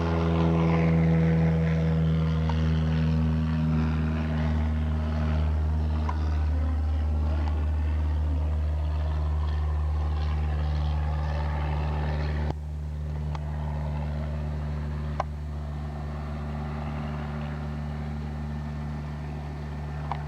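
A light propeller airplane's piston engine and propeller running at takeoff power as the plane goes by and climbs away: a steady, strong drone whose pitch sags slightly in the first few seconds. The sound drops suddenly in level about twelve seconds in.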